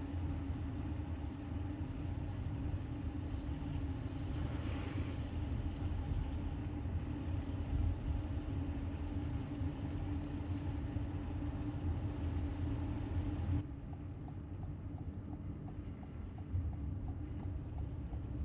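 A vehicle engine running steadily with a low rumble and a constant hum. About two-thirds of the way in it cuts abruptly to a quieter, similar engine sound.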